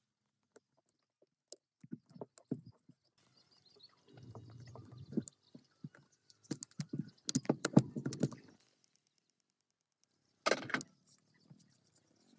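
Metal parts and tools being handled: scattered clicks and knocks, a busier run of clatter past the middle, and one loud knock near the end.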